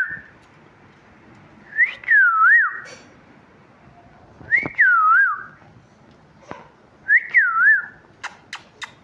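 A pet parrot whistling the same short phrase three times, about two and a half seconds apart: each a quick rise then a falling, wobbling whistle lasting about a second. A few sharp clicks follow near the end.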